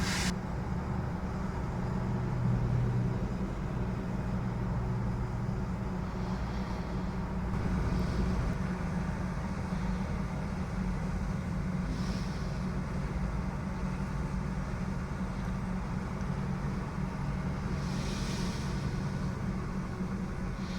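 Heavy diesel truck engines running steadily in a low drone, with a few short hisses a second or so long at intervals.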